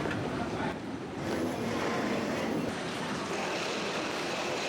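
Steady rushing ambient noise of an airport during boarding, such as air handling, with faint voices in the background.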